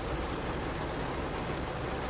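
Heavy rain drumming steadily on a car's roof and windows, heard from inside the car, with a deep low rumble under it.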